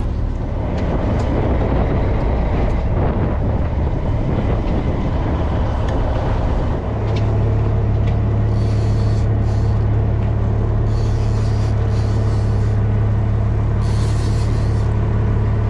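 A motor runs with a steady low drone, which grows steadier and stronger about seven seconds in. Bursts of hiss come and go over it in the second half.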